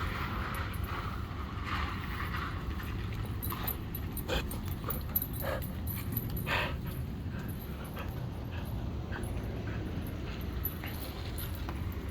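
A dog whimpering, with a few short whimpers around the middle, over a steady low rumble.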